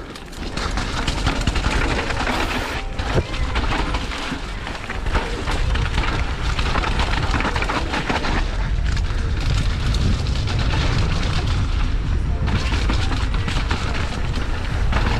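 Downhill mountain bike riding fast over rough trail: wind rumbling on the camera microphone, with tyre noise and a steady run of knocks and rattles from the bike over the bumps.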